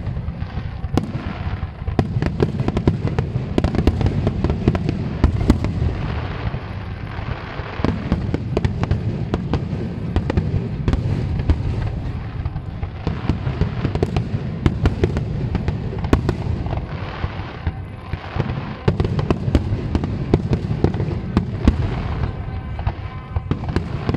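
Fireworks display in full barrage: shells bursting in a dense, unbroken run of sharp cracks and bangs over a constant low rumble.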